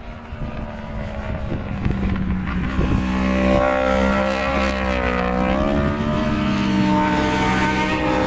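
Motorcycle engine running at track speed, its note dipping and rising again midway, over wind buffeting the microphone.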